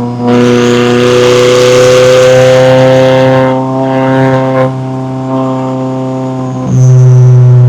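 McLaren 570S twin-turbo V8 engine and exhaust running at fairly steady revs, with the throttle pressed on and eased off. It is loud and rough for the first three seconds or so, quieter through the middle, and loud again near the end.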